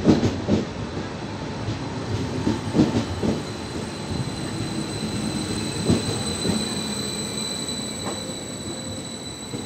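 Electric regional train rolling slowly past along the platform: wheels knocking over rail joints and points in irregular thuds, with a thin, high, steady wheel squeal above the rumble. The sound grows fainter toward the end as the train moves off.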